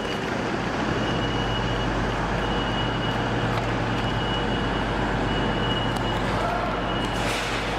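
Steady hum and fan noise of electric trains standing at a station platform, with a low drone and a faint high whine. A brief hiss comes near the end.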